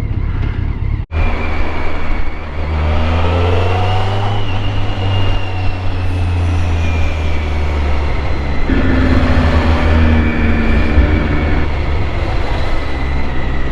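BMW motorcycle being ridden: the engine runs under wind and road noise, its pitch climbing between about three and five seconds in and shifting again near nine seconds.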